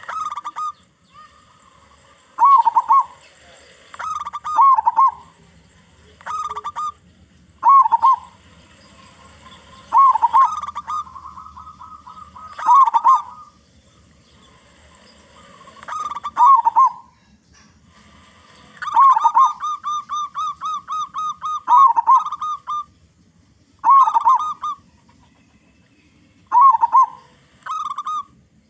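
Zebra dove (local perkutut) cooing: a dozen or so short phrases of low, rolling coos, some running into a fast string of quick notes.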